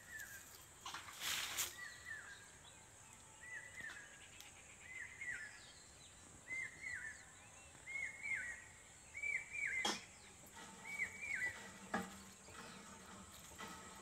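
A bird calling over and over, a short double note with a downward hook repeated about every second and a half, stopping a little before the end. A few sharp clicks come in the second half.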